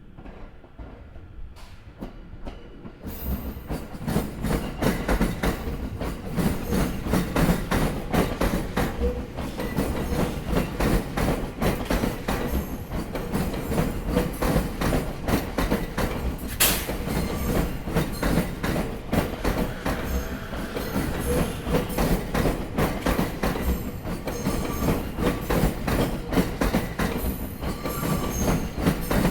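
Commuter electric train wheels clacking loudly over rail joints in a rapid, continuous series of knocks, over the rumble of the train running by. The sound builds up about two to three seconds in. One especially sharp joint strike comes a little past the middle.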